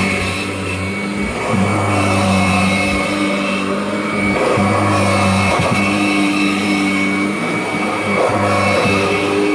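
Kirby G6 upright vacuum cleaner running with a steady motor hum and high whine, its tone and level shifting every few seconds as it is pushed back and forth over the floor.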